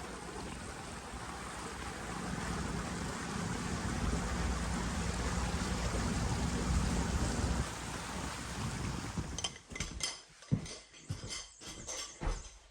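Pontoon boat under way: its outboard motor running under a steady rush of wind and water, swelling a little toward the middle. About nine seconds in this cuts off, and a scatter of sharp knocks and clicks follows.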